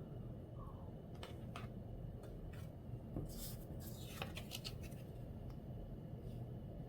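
Paintbrush tapping and scraping in a watercolour palette as paint is picked up and mixed: faint scattered clicks, with a brief run of swishing scrapes about halfway through.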